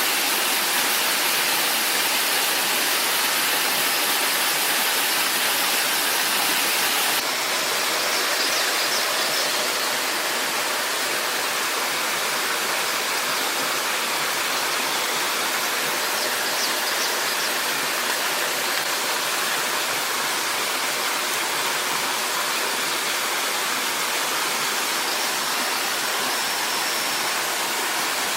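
Waterfall rushing, a steady dense roar of falling water that shifts slightly in tone about a quarter of the way in. A few faint, short high chirps sound over it.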